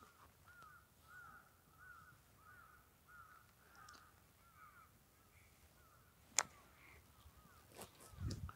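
A distant bird calling over and over, a short rising-and-falling note about twice a second, faint against a quiet background. There is one sharp click about six and a half seconds in.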